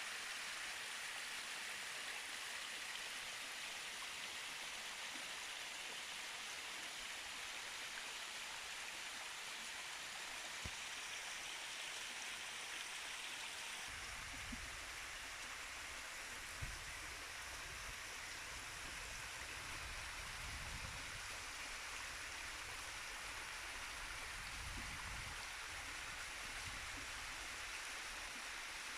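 Steady rush of a fast-flowing stream. A low rumble joins about halfway through, with a few faint knocks.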